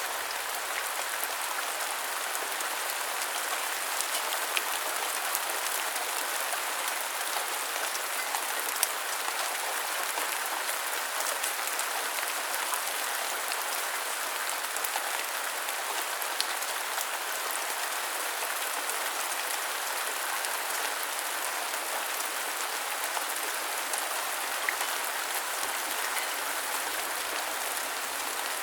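Steady rain, an even hiss with scattered faint ticks of single drops.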